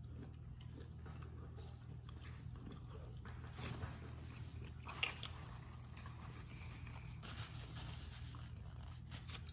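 Faint chewing of a mouthful of food, soft mouth sounds with a few short crisp crunches, the sharpest about five seconds in, over a steady low hum.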